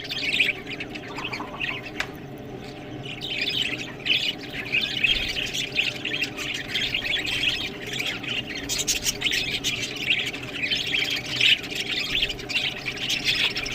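Several budgerigars chattering and chirping continuously over a steady low hum. The chatter is sparser for the first few seconds, then thickens.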